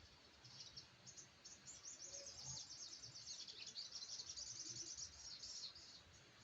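Faint, high-pitched rapid twittering of a small caged bird, a newly caught sogok ontong. It starts as scattered chirps and runs into a dense, fast chattering trill for a few seconds before thinning out near the end.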